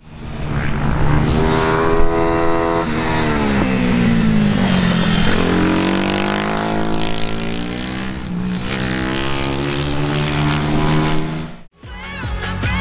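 MRF 140 pit bike engine revving hard, its pitch rising as it accelerates and dropping as it shifts or slows, several times over. It cuts off abruptly near the end.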